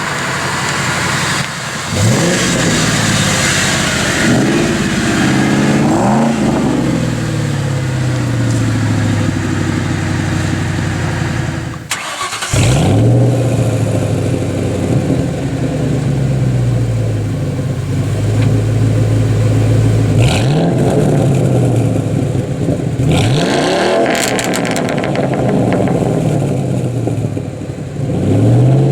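Ford Mustang 4.6-litre V8 exhaust while being driven: the engine revs up sharply several times and slowly falls back in pitch in between, with a brief break in the sound about halfway through.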